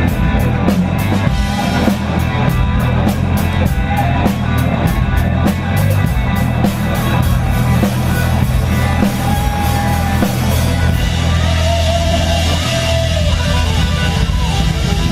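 Live blues-rock band playing: electric guitar over bass and a drum kit with a steady cymbal beat, and sustained lead lines in the second half.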